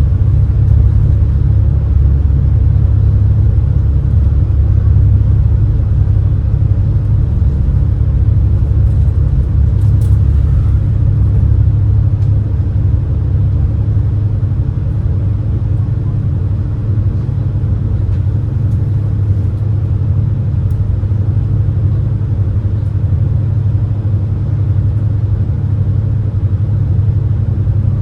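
Steady low rumble of the Super Jet high-speed passenger boat's engines, heard aboard while under way, easing slightly about halfway through.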